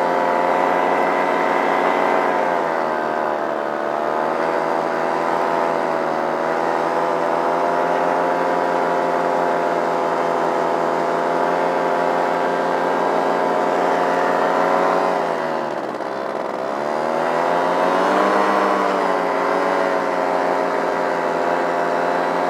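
Muffled Simonini two-stroke paramotor engine, fitted with a Nirvana Rodeo muffler and intake silencer, running steadily at a high setting. Its pitch sags slightly about three seconds in, then drops deeply around sixteen seconds as the throttle is eased back, and climbs back up a couple of seconds later.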